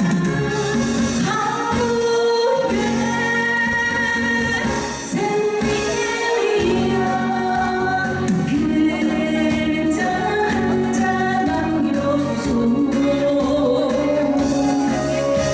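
Live trot song: a woman singing with long held, gliding notes over a steady instrumental accompaniment.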